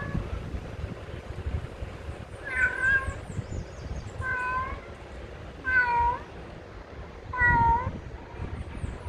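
A cat meowing four times, short meows about a second and a half apart, with thin high chirps of small birds in the background and a steady low rumble underneath.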